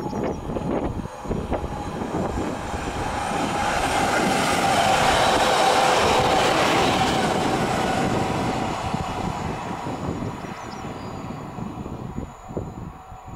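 Newag Impuls (EN63A) electric multiple unit passing at speed: the rumble of wheels on the rails swells to a peak about halfway through, with a steady tone over it, then fades as the train recedes.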